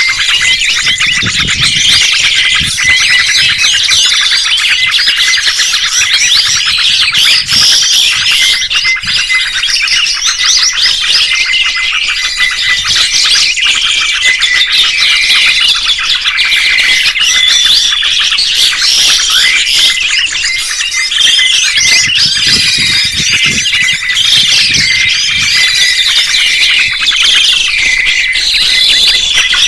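Many birds chirping and calling at once, a dense unbroken chorus of quick, overlapping high chirps.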